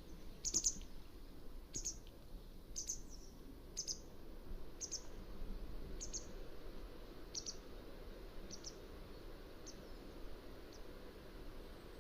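Mountain wagtail giving a series of short, sharp high call notes, about one a second, growing fainter over the last few seconds.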